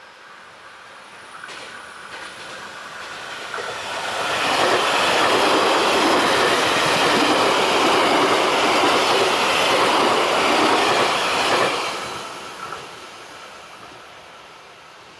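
A train passing close by. It grows louder over the first four seconds, stays loud for about seven seconds as it goes past, then dies away.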